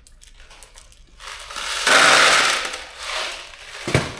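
Metal bolts rattling and clinking as they are handled and counted out by hand for a bolt kit, loudest about halfway through, with one sharp knock near the end.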